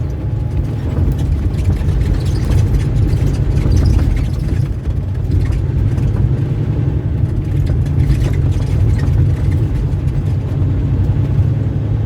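A road vehicle driving, with a steady, loud low rumble of engine and road noise.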